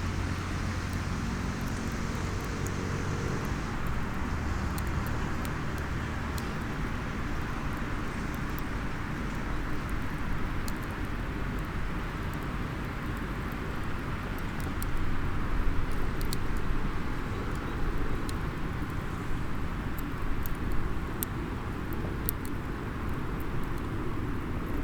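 Small wood fire in a SOTO mini fire stand crackling with scattered sharp pops, thicker from about halfway through, over a steady background rumble and hiss; a low hum fades out a few seconds in.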